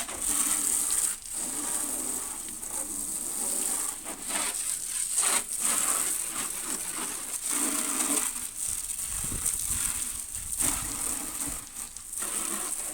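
A stream of water from a hose-end truck-wash sprayer spraying onto a pickup's body panels: a steady hiss with splashing that swells and fades as the stream moves.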